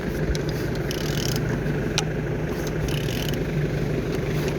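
A VW 1.2 TSI (CBZA) engine being turned over by hand with a wrench to check that it turns and holds compression: short scrapes about one and three seconds in and a sharp click about two seconds in, over a steady low hum.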